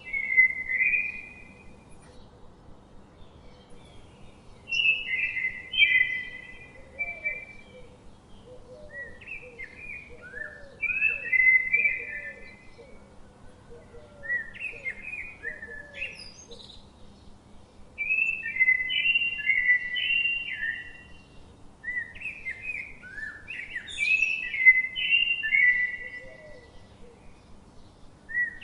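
A songbird singing, repeating short phrases of quick, gliding whistled notes every few seconds with brief pauses between them. Faint lower-pitched notes repeat in the background through the first half.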